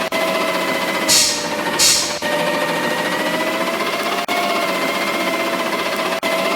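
Garbage truck running with a steady mechanical whine that drifts slowly in pitch, and two short hisses of air about a second in.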